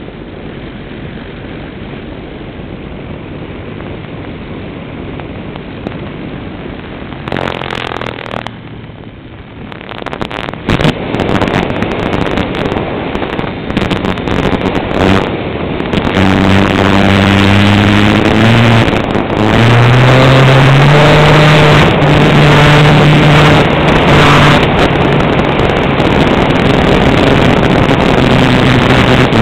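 Propeller-driven Cessna's engine running, quieter at first and then opened up: from about halfway through the note rises in steps to a loud, high, steady drone that stops suddenly at the end.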